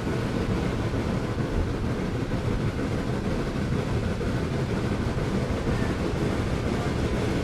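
Steady rumble of a moving train.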